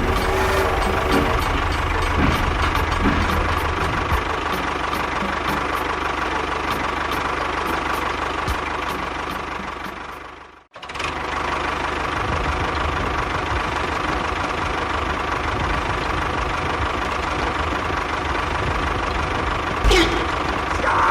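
Engine-like running, steady and continuous, that drops out for a moment about halfway through, with a short sharp sound near the end.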